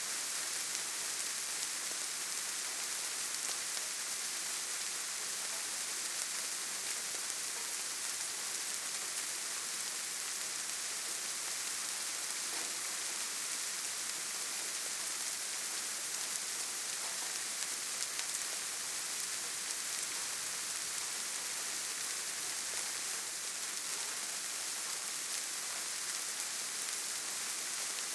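Steady rainfall in a forest, an even hiss of rain with faint scattered drop ticks.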